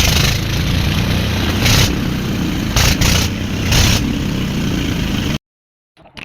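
Old diesel engine running loudly, with dense pulsing low-end firing and several brief hissing surges; it cuts off suddenly about five seconds in.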